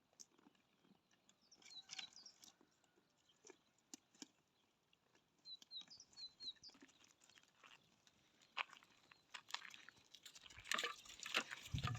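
A small bird chirping faintly in short quick runs, about two seconds in and again halfway through. Scattered clicks and rustles start about two-thirds in and grow louder near the end.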